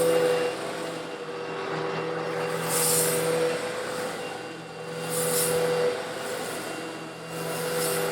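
Eureka vacuum cleaner running with a steady motor hum while sucking up coarse stone granules, the grit rattling and hissing through the nozzle in swells about every two and a half seconds.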